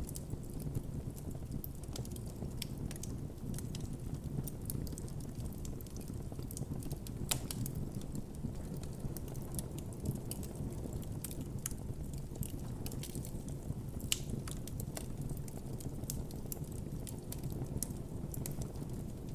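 Campfire crackling, with frequent sharp pops and snaps of burning wood over a steady low rumble of the flames; a few pops stand out louder, around seven and fourteen seconds in.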